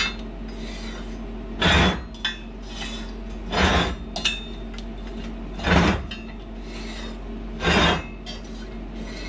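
Four slow rasping strokes on steel, about two seconds apart, like a hand file or scraper worked across a bar edge, over a steady low hum.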